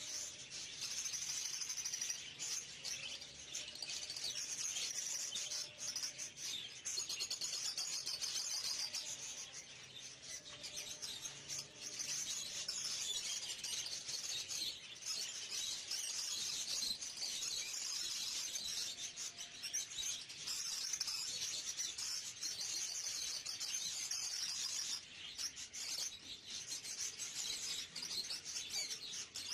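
Many small cage birds chirping and chattering together at once, a dense unbroken twittering of many overlapping high calls.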